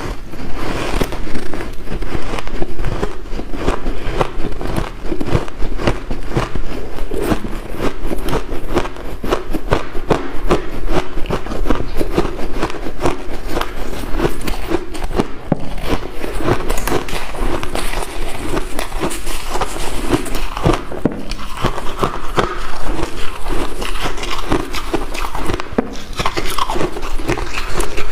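A person biting and chewing white ice, with dense, irregular crunching throughout.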